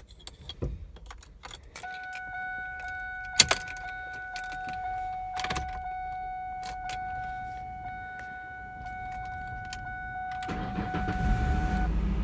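Keys clicking in the ignition of a 2004 Ford Mustang, then a steady warning chime tone sounding for several seconds with the driver's door open. Near the end the 3.9-litre V6 starts and settles into a low, steady idle.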